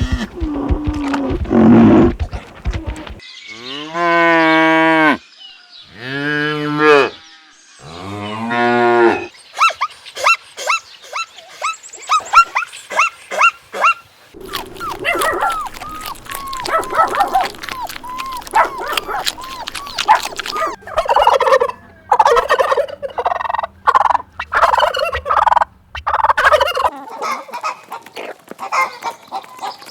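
Cows mooing, three long low calls in the first nine seconds or so. Then a flock of poultry calls over one another in a busy chorus, with geese honking among them.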